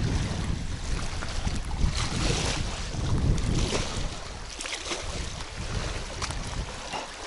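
Wind buffeting the microphone in gusts, a rumbling rush that rises and falls, with a few faint ticks scattered through it.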